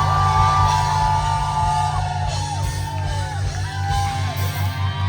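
Live rock band playing loudly, with a steady, pulsing bass under it, while audience members whoop and yell over the music.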